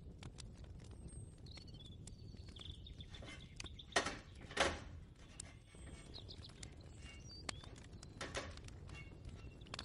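Kitchen ambience with scattered small clicks and clatter, and louder knocks about four seconds in and again about eight seconds in. Short bird chirps sound in the background.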